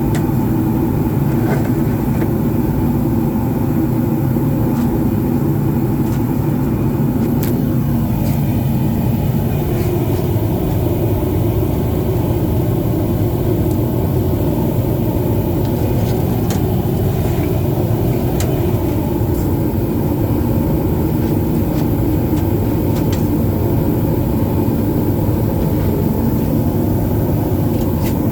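A machine running steadily with a low, constant hum, and a few faint clicks and knocks over it.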